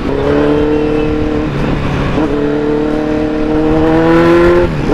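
Kawasaki Z900's inline-four engine pulling under acceleration through an Akrapovic full-system exhaust. The note climbs slowly in pitch and drops back at upshifts about a second and a half in and near the end.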